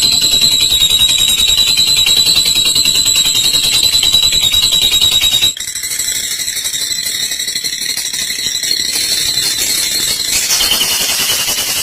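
Olive lovebird's long 'ngekek': a rapid, unbroken high-pitched chattering trill. It changes abruptly about halfway through and goes on slightly quieter.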